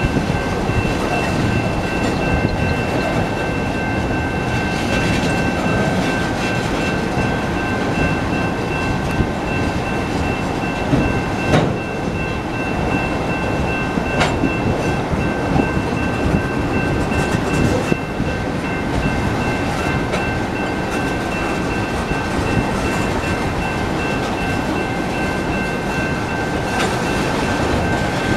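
BNSF freight train's cars rolling past a road crossing with a steady, loud rumble of wheels on rail and a constant high-pitched tone running through it. Two sharp clanks come about halfway through.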